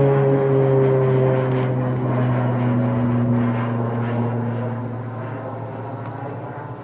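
U.S. Navy T-6 Texan II's single Pratt & Whitney PT6A turboprop and propeller climbing away after takeoff, its droning tones gliding slowly lower in pitch as the sound fades steadily.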